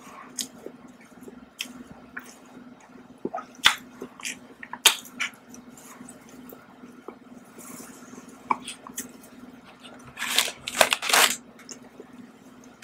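Close-miked chewing of soft cake, with small wet mouth clicks and smacks over a faint steady hum. Near the end comes a louder rustling as a plastic snack packet is picked up.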